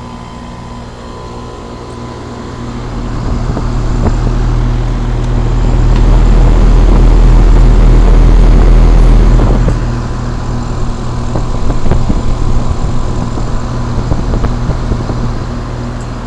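Outdoor unit of a 5-ton Trane XE1000 Weathertron heat pump running in heat mode, a steady hum from its compressor and fan. A loud rumble of air buffeting the microphone swells from about three seconds in, eases after about ten seconds, and comes back in smaller gusts.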